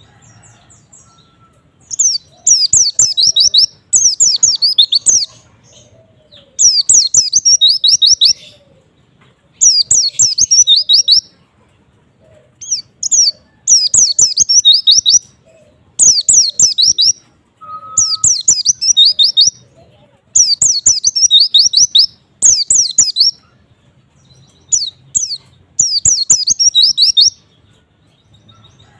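White-eye (pleci) singing in a series of short, high-pitched bursts of rapid twittering, each about a second long, repeated roughly every two seconds.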